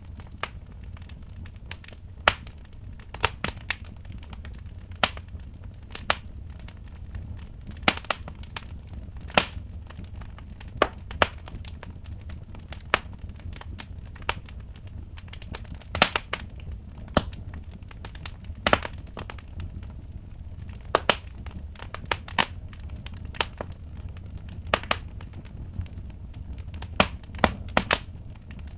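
Wood fire in a fireplace crackling, with sharp pops at irregular intervals over a low, steady rumble.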